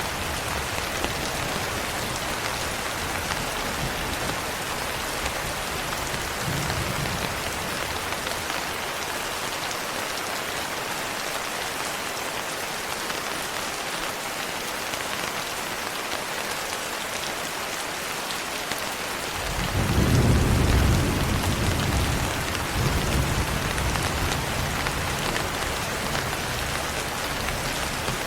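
Steady rain falling on a window, with low rolling thunder that swells about two-thirds of the way through and rumbles on more quietly toward the end.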